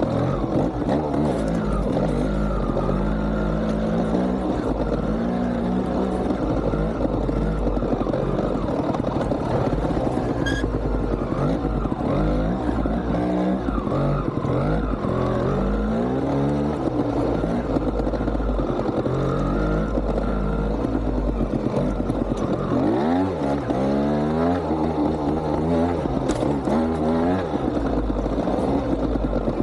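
GasGas TXT 200 trial motorcycle's two-stroke single-cylinder engine being ridden, the throttle opened and closed over and over so the engine keeps revving up and dropping back.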